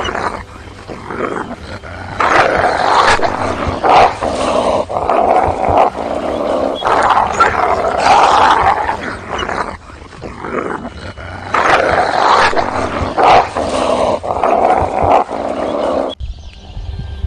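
Wolves growling and snarling in repeated loud surges, a harsh, rough sound that cuts off abruptly near the end.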